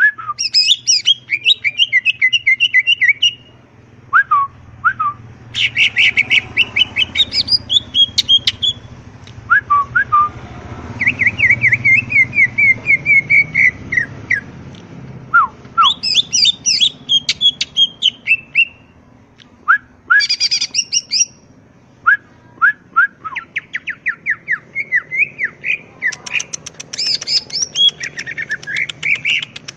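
A cucak ijo (green leafbird) singing vigorously in full song, in repeated bouts of rapid chirps, trills and sliding whistled notes with brief pauses between phrases. A faint steady low hum runs underneath.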